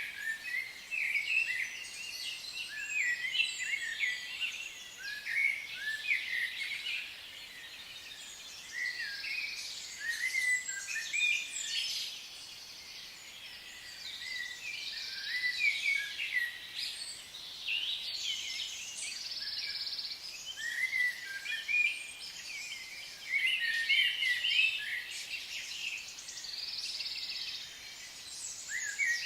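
Several songbirds singing at once, a dense chorus of short, quick chirps and trills that swells and fades every few seconds.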